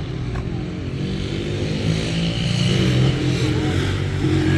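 A motor vehicle's engine running steadily, getting louder about two seconds in.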